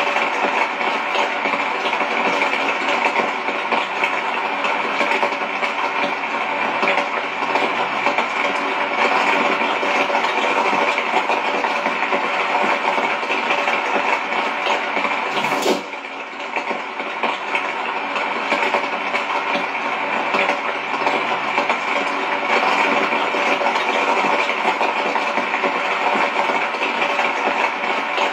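Steady hiss of rain falling, even throughout, with a brief click and a short drop in level about halfway through.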